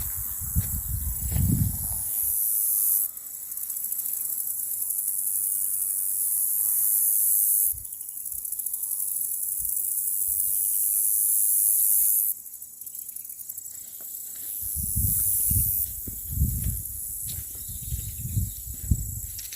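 A loud, high-pitched insect buzz that slowly swells and then cuts off suddenly, three times, over a steady background of insect song. Footsteps on the woodland floor near the start and again in the last few seconds.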